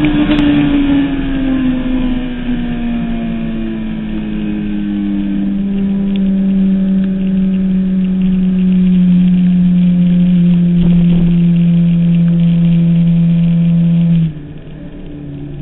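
Suzuki Hayabusa 1300's inline-four engine under way, its note sliding down in pitch over the first few seconds and then holding steady. About a second before the end the sound drops away sharply, as when the throttle is shut.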